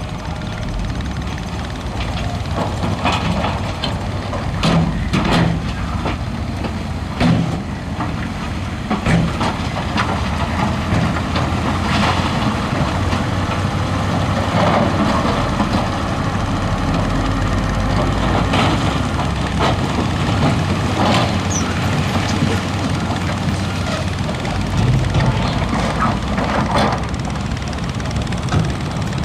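Heavy diesel earthmoving machinery working: a steady low engine drone, with repeated sharp clanks and knocks as gravel and rock are pushed.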